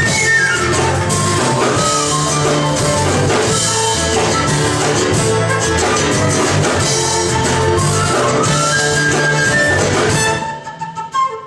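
Instrumental passage of a band song, with no vocals. The full band drops out about ten seconds in, leaving a quieter, sparser part.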